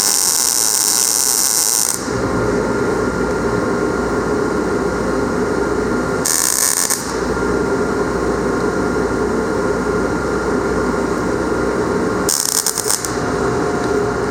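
MIG welder arc sizzling and crackling in short bursts: one at the start, another about six seconds in, a third near the end. These are an inexperienced welder's short runs of weld. Between them there is a steady mechanical noise.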